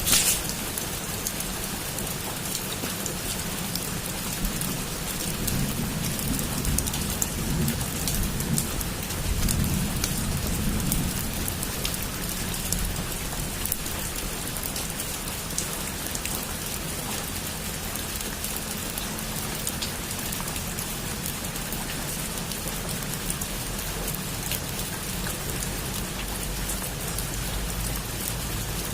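Heavy rain falling steadily on a roof, with a dense patter of drops. A sharp crack comes right at the start, and a low thunder rumble swells about five to eleven seconds in.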